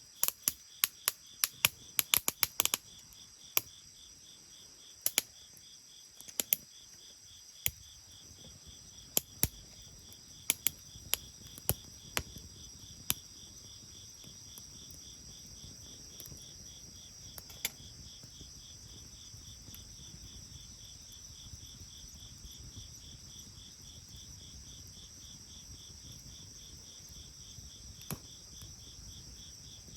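Bonfire crackling, with a quick run of sharp pops in the first three seconds, then scattered single pops that thin out after about thirteen seconds. Insects chirp steadily in a fast, even pulse behind it.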